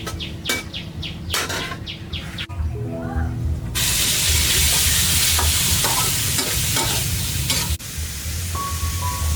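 Food sizzling in hot oil, a loud hiss that starts suddenly about four seconds in and stops about four seconds later. Before it, birds chirp in short quick calls.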